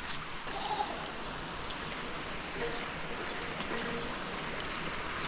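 Steady rain falling, with scattered sharp drips and taps and the hiss of runoff water on soaked ground.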